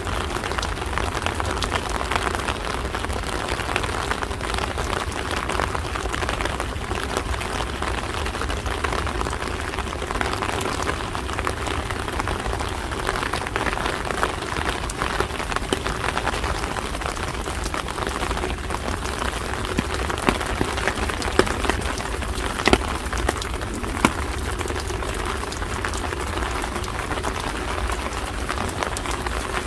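Steady rain falling, with many drops ticking on hard surfaces and a few sharper drips standing out about twenty to twenty-four seconds in.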